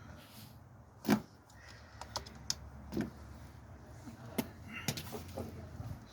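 Irregular clicks and knocks of hand work, the loudest a sharp knock about a second in.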